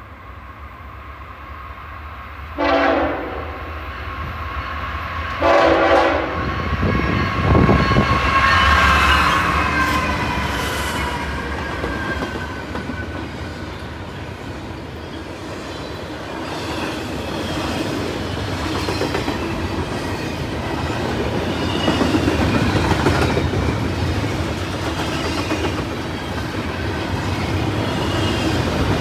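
A freight train's diesel locomotive horn sounds two short blasts. The locomotives pass with a falling pitch, and the freight cars then roll by, clicking over the rail joints.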